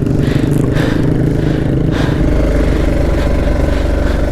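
Vehicle engine running under load as it drives out of soft ground where it had got stuck. Its low drone grows stronger about two seconds in.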